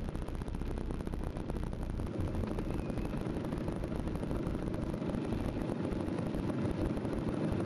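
Off-road 4x4 engine running, a steady low rumble.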